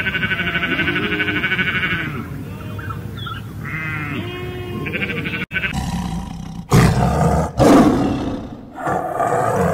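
Sheep bleating for about five seconds: a lamb's high, quavering bleat and lower bleats from a ewe. Then a tiger roars three times, the last roar weaker.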